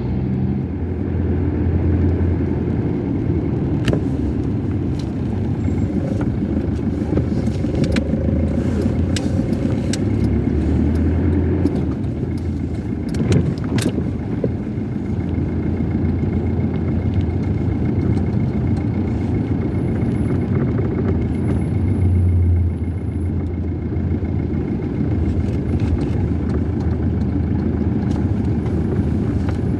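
Car driving: a steady low engine and road rumble that swells a little now and then, with a few light clicks and rattles.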